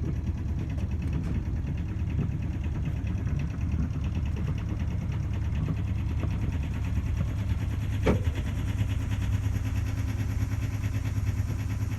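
The yacht's inboard engine idling steadily with a low, even rumble, with one sharp knock about eight seconds in.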